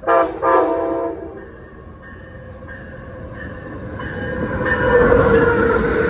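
Locomotive horn sounds two blasts at the start, a short one and then a longer one. The train's rumble then builds as it comes closer, with a steady whine over it.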